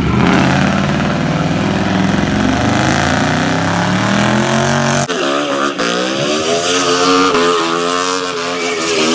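Car engine revving hard during a burnout. Its note climbs steadily for about five seconds, then jumps to a higher pitch that rises and falls as the car spins in its own tire smoke.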